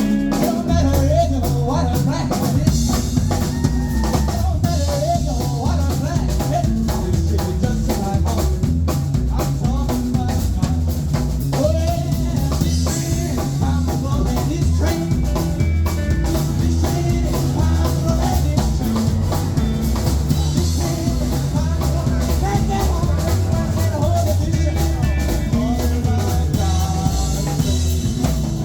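Live rockabilly band playing an uptempo song, a drum kit keeping a steady beat under a wavering melody line.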